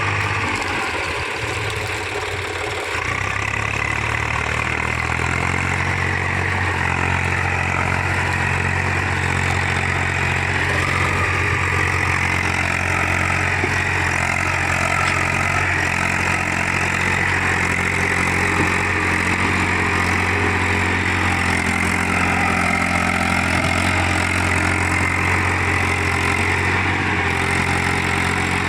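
Eicher 380 tractor's diesel engine idling steadily.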